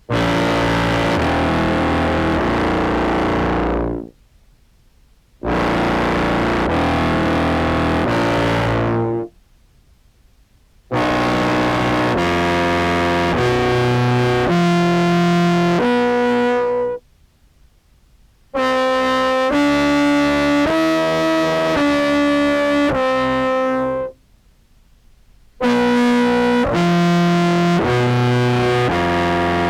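Contrabass clarinet run through an octave pedal set two octaves down into a fuzz pedal, giving a deep, distorted tone. It plays five phrases of several seconds each, moving from note to note, with short pauses between them.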